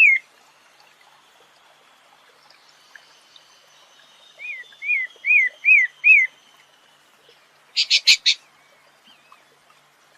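Bird song: a phrase of about six evenly repeated, slurred whistled notes, then a quick burst of four sharp, harsher notes.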